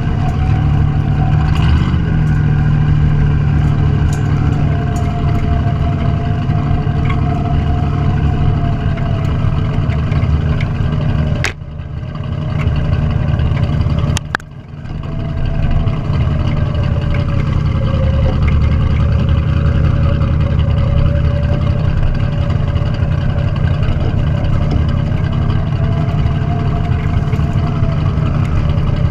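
Classic car's engine running loudly and continuously, its pitch slowly rising and falling. About halfway through there are two short drops in level, each marked by a sharp click.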